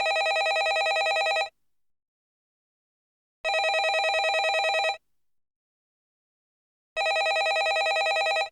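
Landline telephone ringing: three rings of about a second and a half each, one every three and a half seconds, each ring a rapid trill.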